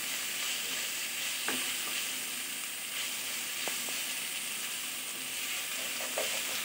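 Potato sticks and a hilsa fish head frying in oil in a pan with a steady sizzle, dry-fried with spices before any water goes in. A wooden spatula stirs and scrapes through them and lightly knocks the pan a few times.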